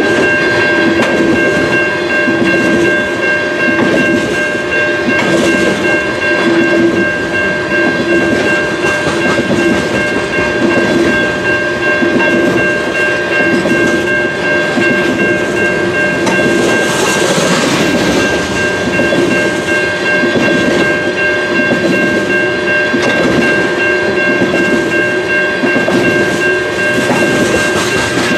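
Freight train of oil tank cars rolling past with continuous clickety-clack of wheels over the rail joints. Steady high ringing tones from the wheels and rails run over the rolling noise throughout.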